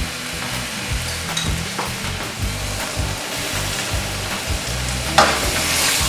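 Stir fry sizzling in a skillet as it is stirred, with one sharp clatter about five seconds in.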